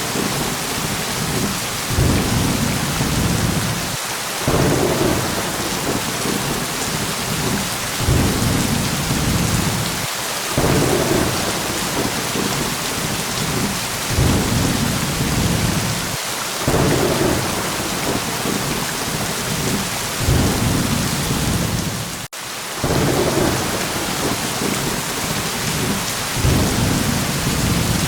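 Steady heavy rain with low thunder rumbles swelling up every few seconds, and a momentary dropout about 22 seconds in.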